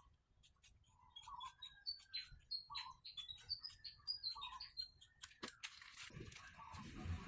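Faint bird chirping, short repeated notes, some dropping in pitch, over a steady run of sharp little clicks. A soft hiss builds up near the end.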